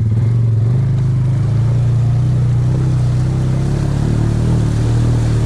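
Off-road vehicle engine running steadily with a low, even drone.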